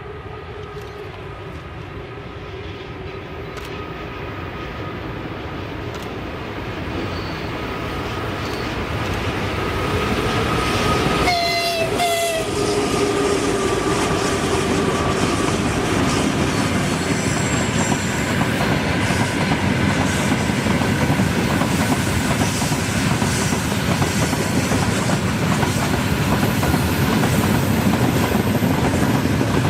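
A train approaching, growing steadily louder, then passing close by with the clickety-clack of its wheels over the rail joints. Near the middle the locomotive gives one short horn blast of about a second.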